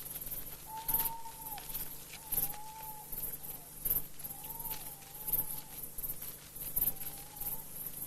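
Wildlife sounds: a soft whistled call repeated five times, about every second and a half, over faint, high-pitched chirping.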